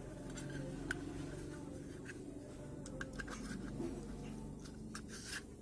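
Faint clicks and light scraping of battery cells being handled and fitted into a plastic power bank case, with a sharper click about a second in and a cluster of scrapes near the end, over a steady low hum.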